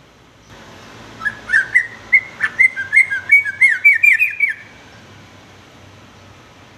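Yellow-vented bulbul (trucukan) singing one phrase of about three seconds, starting about a second in: a run of short whistled notes that come faster toward the end.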